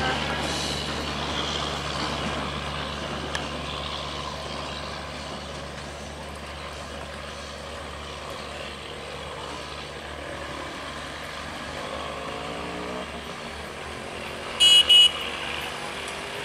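Passenger train running away along the track, a steady low rumble and hum that slowly fades. Near the end a horn gives two short, loud blasts in quick succession.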